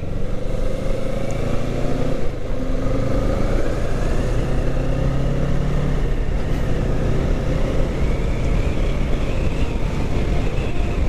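Kawasaki Ninja 650's parallel-twin engine running while riding, its pitch rising slowly over the first several seconds and then holding steady.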